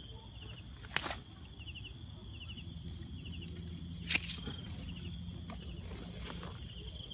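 Steady chorus of crickets and other insects in a rice field, with a repeating short chirp pattern, broken by two sharp clicks about a second in and about four seconds in.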